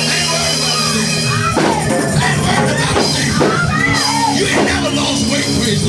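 Church praise music: held chords and a drum kit with tambourine, with voices shouting and singing over the music.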